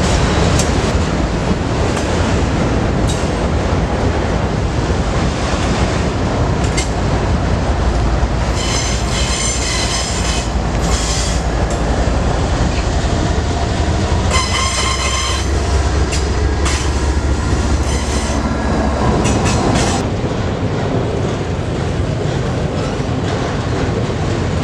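Freight train rolling past with a steady rumble and clatter of wheels on rail. High-pitched wheel squeal rings out twice, about nine and fifteen seconds in.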